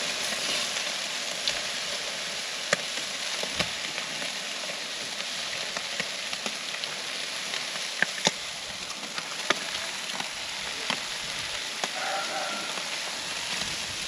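Fish sizzling in hot fat on the grill: a steady hiss broken by scattered sharp pops and crackles.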